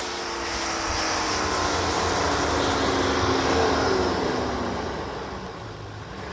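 Car engine running hard at high revs under load, as a car takes a run-up to push through deep snow. It grows louder to a peak about four seconds in, then fades.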